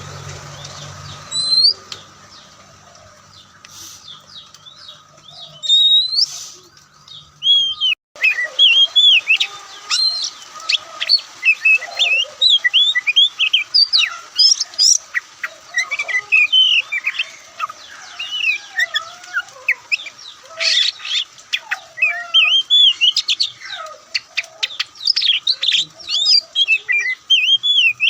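Oriental magpie-robin singing: a few scattered whistles at first, then from about eight seconds in a fast, continuous run of varied, sliding whistled notes. A low engine hum sits under the first few seconds and stops before the song picks up.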